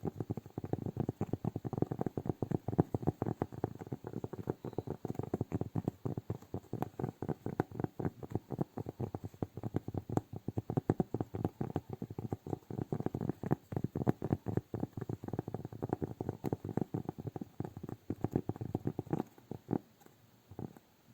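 Close-miked ASMR hand sounds: a dense, rapid run of small taps and crackles, mostly low in pitch. The stream thins to a few scattered taps near the end.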